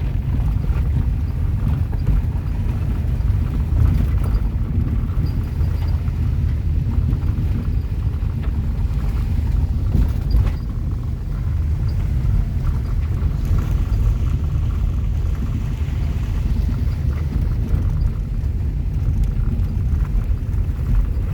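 Steady low rumble of a car driving along, with tyre noise from a gravel road and a few faint knocks.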